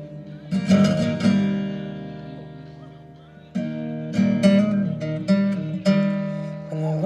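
Acoustic guitar intro of a song: chords strummed and left to ring, fading out until about halfway through, then a steady pattern of strums picks up.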